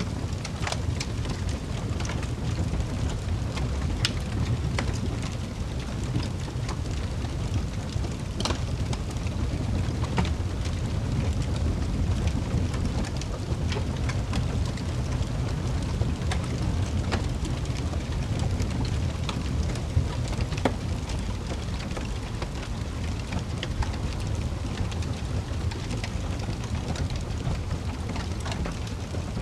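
Wood fire crackling in a fireplace: a steady low rumble with irregular sharp pops and snaps scattered throughout.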